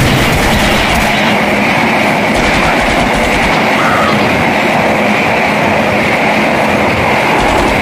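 Train running fast along the track: a loud, steady noise of the train passing, with a fine regular beat in the low end.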